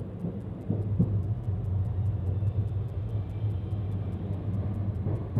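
Passenger train coach running along the track: a steady low rumble of wheels on rails, with a couple of short knocks about a second in and another near the end.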